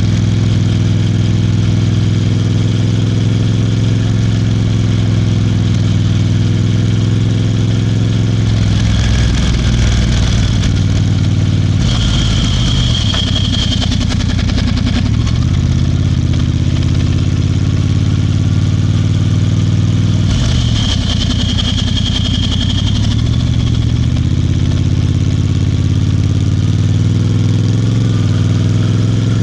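Royal Enfield Bear 650's 648 cc parallel-twin engine running under way on the ride. Its pitch dips and recovers twice, about a third and two-thirds of the way in, and a high steady tone with a rush of hiss sounds twice for about two seconds.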